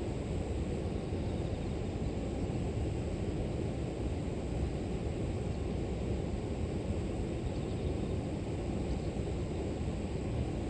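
River water flowing, a steady low rushing that does not change, with a faint thin high hum of grass insects above it.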